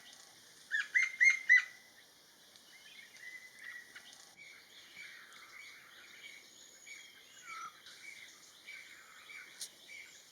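Wild birds calling: a quick series of four or five loud, sharp notes about a second in, followed by softer, continuous chirping and twittering.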